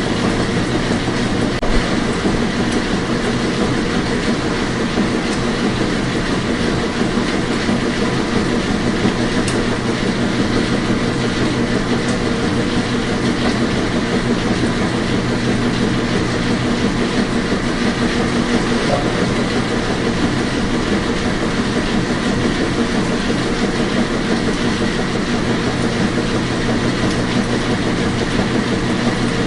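Washing machine running steadily: a constant mechanical rumble and hum with a fine rattling texture, unchanging throughout.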